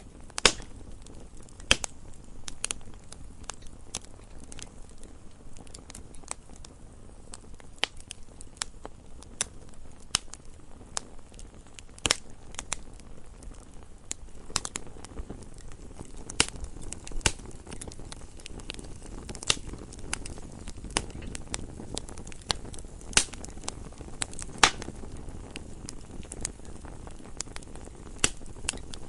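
Campfire burning with irregular crackling and sharp pops of the wood over a low, steady rumble of the flames.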